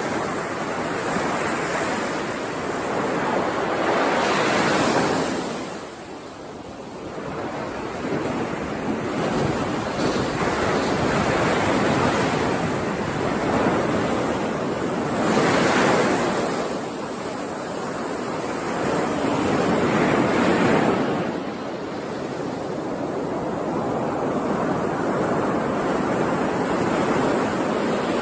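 Ocean surf: waves washing onto the shore, swelling into louder breaks several times and ebbing back between them.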